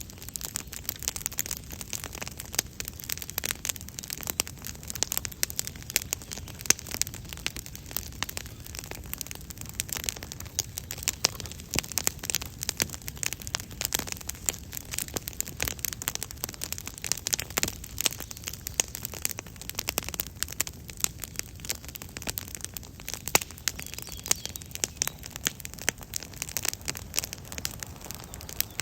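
Wood campfire crackling, with a steady stream of sharp pops and snaps.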